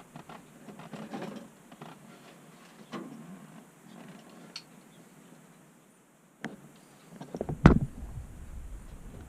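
Small clicks and rustles of hand-fitting a bolt and nut on a bilge pump, then a sharp click and, near the end, a heavy thump with a few knocks, the loudest sound.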